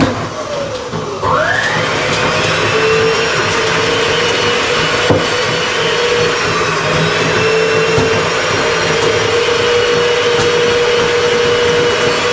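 Electric power-tool motor running steadily under load. Its pitch sinks and then climbs back up about a second in, as it slows and regains speed.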